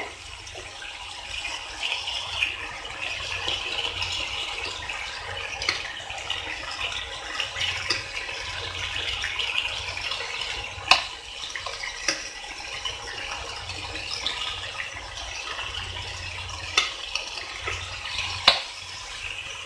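Cabbage rolls sizzling with a steady crackle as they shallow-fry in a little oil and sauce in a nonstick pan. A few sharp clicks come from a spatula and tongs knocking the pan as the rolls are turned.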